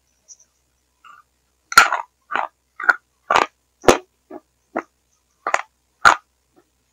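Close-up chewing mouth sounds picked up by a faulty headset microphone: about ten short sounds, roughly two a second, starting about two seconds in, with dead silence cut in between. The failing microphone distorts the chewing into what the uploader calls a frog's dying gurgle.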